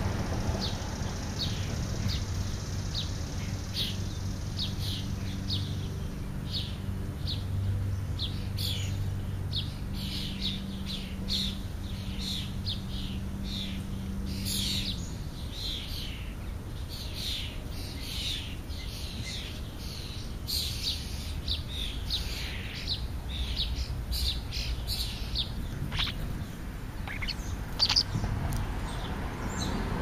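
Songbirds chirping, many short, high chirps in quick succession. A low steady hum runs underneath and stops about halfway through.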